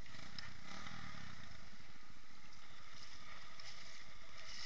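Irbis TTR 250 enduro motorcycle running steadily while it wades through water, with engine and water noise blended into an even rush.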